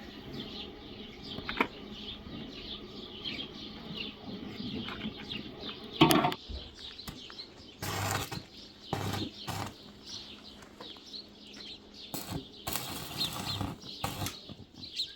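Small birds chirping over and over, with several short, louder noisy bursts, the loudest about six seconds in.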